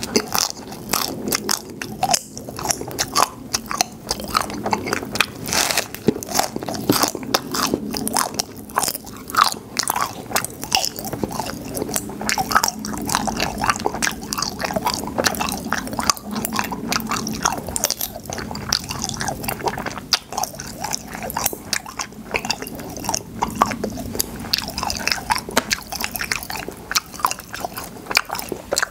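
Close-miked chewing and biting of cotton candy filled with popping candy, with a dense, rapid crackle of clicks from the popping candy.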